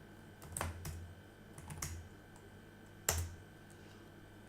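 Computer keyboard typing: a few scattered key presses in small clusters, the loudest about three seconds in.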